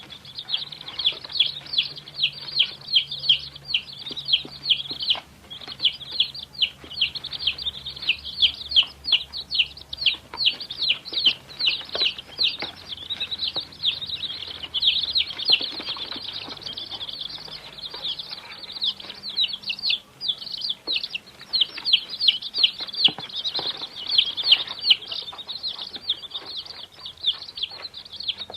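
Domestic chicks peeping: a dense, nonstop stream of short, high-pitched peeps that overlap one another.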